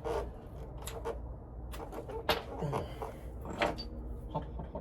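A few scattered metallic clicks and knocks of a hand tool being fitted to a driveshaft U-joint strap bolt, over a low steady hum.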